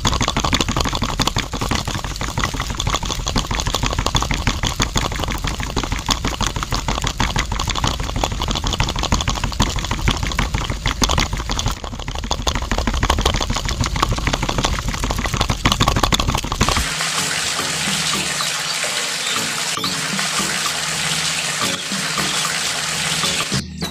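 Miniature DIY concrete mixer running: its small motor-driven drum turns, and wet concrete sloshes and rattles inside with a dense, rapid clatter. About two-thirds of the way through, the low rumble stops and a steadier hiss carries on.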